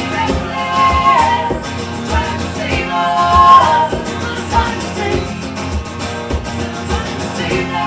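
Live band playing a song: guitar and a steady low beat under sung notes that are held and then drop away, about every two seconds.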